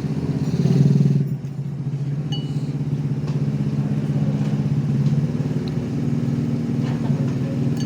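A motor vehicle's engine running steadily close by, its pitch rising slightly about five seconds in, with a few light clinks.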